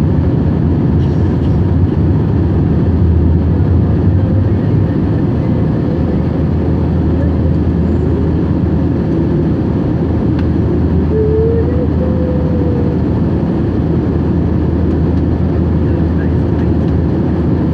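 Steady engine and airflow rumble of an Airbus A321-231 in flight, heard inside the cabin, with its IAE V2500 turbofans running at a constant setting.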